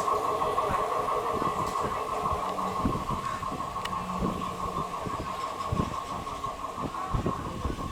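Freight train running past, its wheels knocking irregularly over the rail joints under a steady high-pitched ringing tone, the whole slowly fading.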